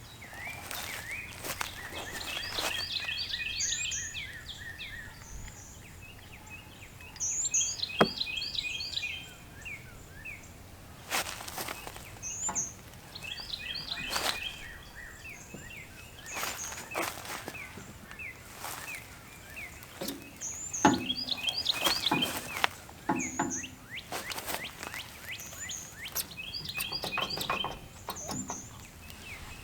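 A songbird sings the same short, rapid phrase over and over every few seconds. Metal parts and hand tools clank and knock now and then, several times in clusters, as a shaft and nut are being fitted.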